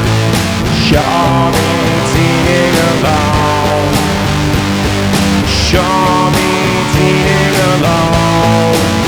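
Rock band playing an instrumental passage, led by guitar over bass and drums with a steady beat.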